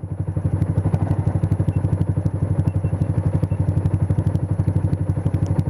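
Motorcycle engine idling with an even, fast low pulse of about ten beats a second, holding steady without revving.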